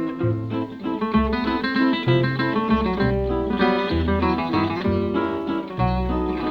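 Acoustic guitar music: quick plucked notes over a line of low bass notes that change about once or twice a second.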